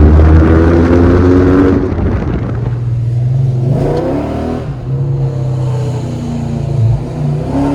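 Modified Chrysler SRT's V8 engine pulling hard under acceleration, loudest for the first two seconds, then easing, with the engine pitch rising again about four seconds in and near the end.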